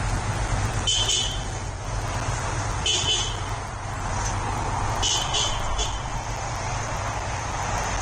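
Bald eagle giving short high chirping calls in three bouts about two seconds apart, the last a quick run of three notes, over a steady low background rumble.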